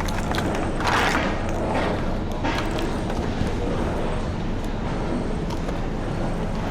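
Motorcycle riding through city traffic: a steady low rumble of wind and engine on the microphone, with brief louder rushes about a second and two and a half seconds in.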